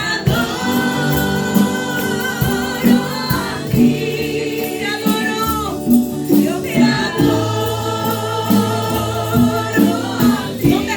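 Live worship music: a group of singers holding long sung phrases over a band with bass and drums keeping a steady beat.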